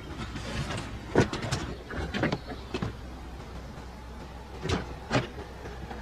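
Someone rummaging and moving objects about as if searching for something: a series of separate knocks and clicks, about six in all, over a low steady hum.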